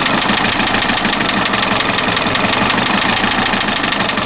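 VW ALH 1.9 TDI four-cylinder diesel idling steadily, an even rapid pulsing with a loud rush of air being drawn into the intake. It is running but does not respond to the accelerator pedal, which the owner takes for a mass airflow sensor or pedal fault; it is described as very quiet for a diesel.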